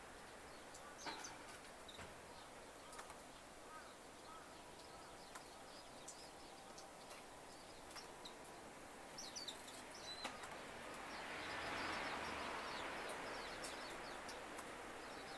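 Faint short, high chirps of small garden birds with scattered ticks, including a quick run of calls about nine to ten seconds in. A soft rush of noise swells and fades between about eleven and fourteen seconds.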